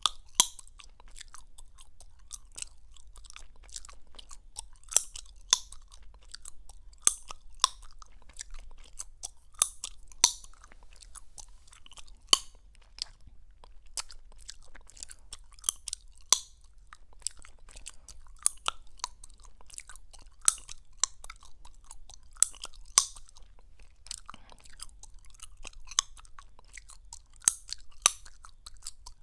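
Gum chewed close to the microphone, with wet smacking and sharp popping clicks; a few louder pops come every second or so.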